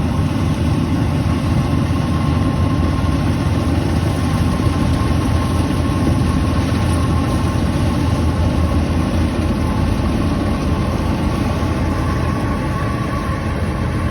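Combine harvester's diesel engine running steadily, with a faint steady whine above the engine noise.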